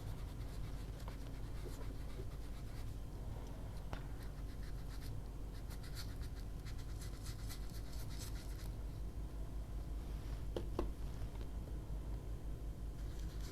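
Ink being rubbed onto paper with an applicator: soft, repeated scratchy strokes that are busiest in the middle, with a couple of light taps.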